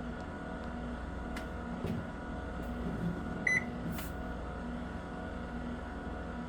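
AW-B7091 washing machine running just after being started: a steady low motor hum that pulses in an even rhythm, with one short electronic beep about three and a half seconds in.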